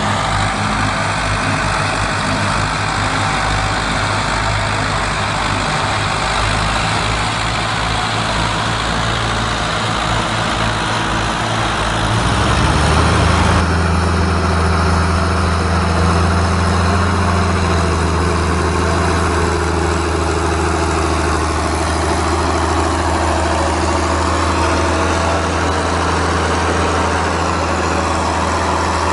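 Heavy tractor engine running. For the first dozen seconds the low note pulses; about halfway through it changes to a steadier, stronger low hum.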